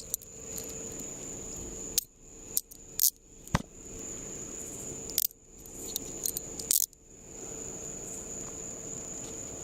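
Handcuffs being put on a man's wrists: a string of sharp metallic clicks and jingles between about two and seven seconds in, over a steady high insect trill.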